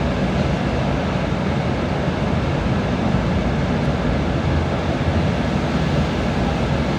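Steady rain: an even rushing noise with a deep rumble underneath, unchanging throughout.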